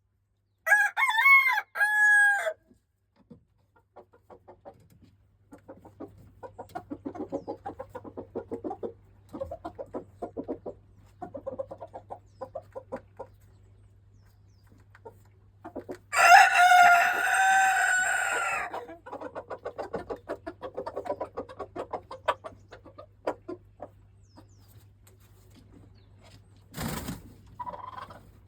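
Silkie chickens: a loud, short three-note call about a second in, then a silkie rooster crowing, one long crow of about three seconds starting around the middle, with soft rapid low clucking in between and after it. A short knock near the end.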